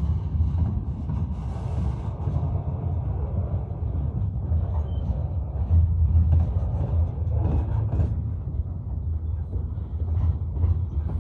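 Freight train of covered hoppers and boxcars rolling past: a steady low rumble of steel wheels on the rails, with a few faint knocks.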